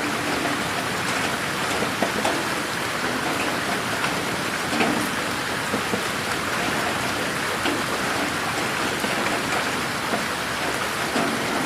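Steady rain falling on a garden: a dense, even hiss of rainfall with many scattered sharp drop impacts.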